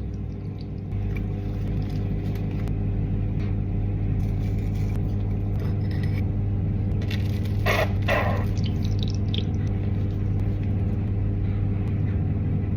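A steady low mechanical hum, like a motor or fan, with two short clattering knocks about eight seconds in.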